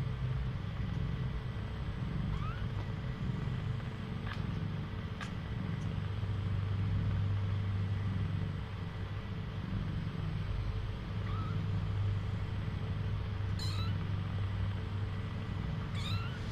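Young kittens giving a few faint, short rising mews over a low steady hum.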